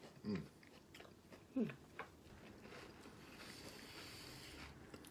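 People chewing battered fried oyster mushrooms and onion rings. Two short falling 'mm' hums of enjoyment come near the start and about a second and a half in, followed by quiet mouth noises of chewing.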